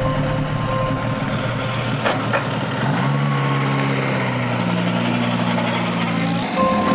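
Historic car's engine running at idle, then rising in pitch about three seconds in as the car pulls away slowly. A steady high tone sounds over it at times, and the engine sound changes abruptly near the end.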